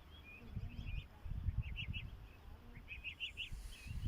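Birds calling outdoors in repeated short chirps, over an uneven low rumble.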